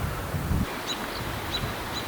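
Wind buffeting the microphone, dropping away after about half a second to a steady hiss, with a bird's short, high chirps repeating every half second or so.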